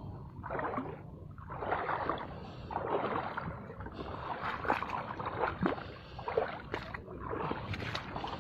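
Sea water washing and sloshing around the shore in surging waves, several swells rising and falling one after another, with scattered sharp clicks and knocks.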